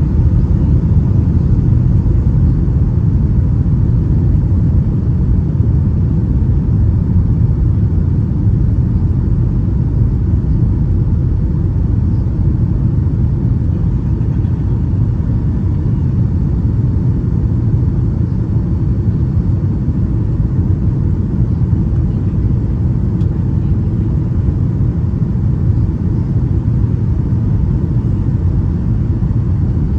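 Steady low rumble of a Boeing 757-200's engines and airflow, heard inside the cabin.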